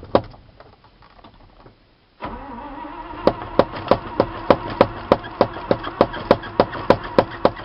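International 345 V8 gasoline engine of a 1977 Loadstar 1700 grain truck starting from cold: it catches about two seconds in and keeps running, with a regular sharp pulse about three times a second.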